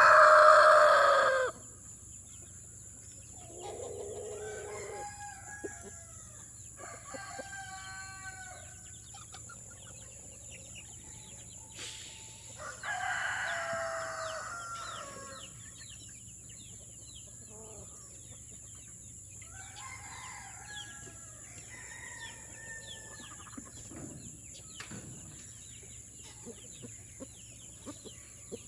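Chickens crowing and clucking. A loud rooster crow ends about a second and a half in, and more crows and calls follow at intervals, one louder in the middle.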